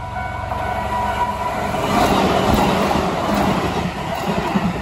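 Keihan 6000 series electric train passing close by at high speed: a rush of noise builds and peaks about two seconds in, then turns into rumble and rhythmic wheel clatter as the cars go by. At the start, a level-crossing alarm's repeated dings fade under the train.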